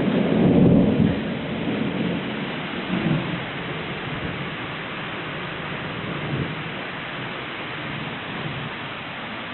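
Steady rain falling, an even hiss throughout. A low rumble fades out over the first second, with fainter low swells a few seconds later.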